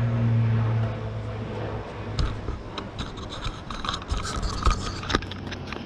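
Scratching, rubbing and sharp clicks of hands handling plastic tailgate trim, the clicks coming from about two seconds in. A steady low hum fades out about a second in.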